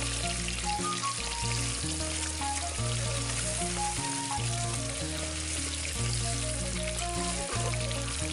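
Chicken pieces sizzling as they deep-fry in hot oil in a kadai, a steady hiss throughout. Background music with a steady bass line runs underneath.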